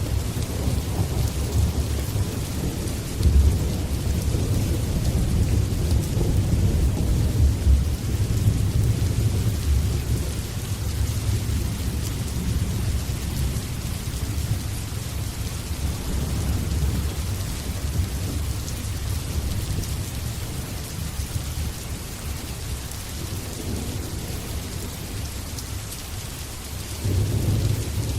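Steady rain hissing, with low rolling thunder rumbling beneath it. The rumble swells in the first third and again briefly near the end.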